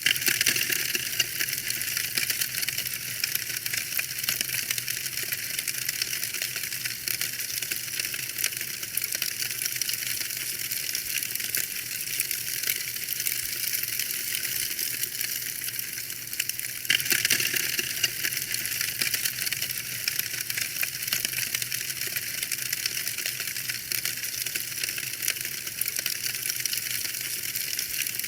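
Fireplace fire crackling steadily: a dense, continuous stream of small pops and snaps, bright and crisp, with little low rumble.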